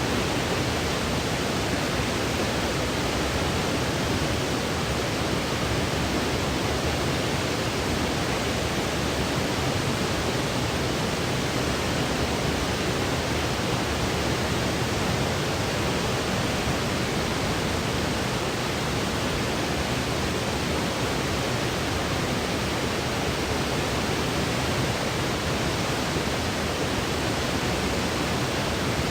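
Steady white noise, an even, unchanging hiss with no breaks or events.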